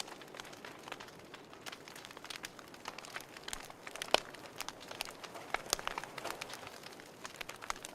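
Wood fire crackling in a fireplace: irregular sharp pops and snaps over a soft steady hiss, with one louder pop about four seconds in.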